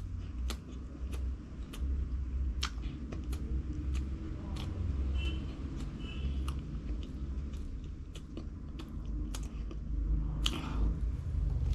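A person chewing and biting food, with irregular crunchy clicks from the bites.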